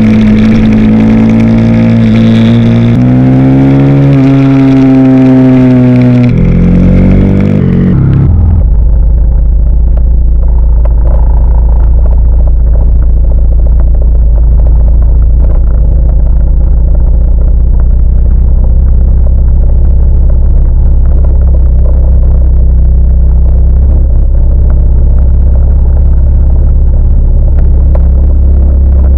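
Husqvarna Svartpilen 401 single-cylinder motorcycle engine running under way, its note rising slightly, then falling away over a couple of seconds about six seconds in. A steady low drone follows.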